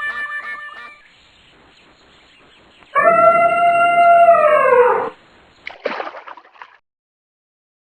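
Cartoon duck quacks trailing off in the first second, then a loud, long animal call on one held note that drops in pitch as it ends. A short noisy rush follows.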